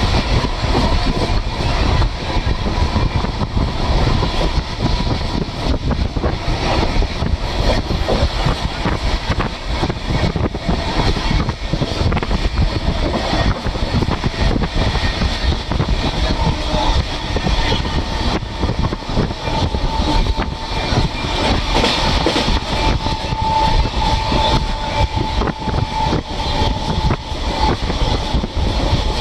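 Express passenger train running at speed, heard from aboard a coach: a steady rumble with a dense clatter of wheels on the rails.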